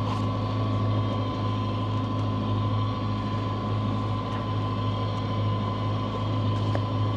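Sailing yacht's inboard diesel engine running steadily at low harbour speed: an even low drone with a thin steady whine above it.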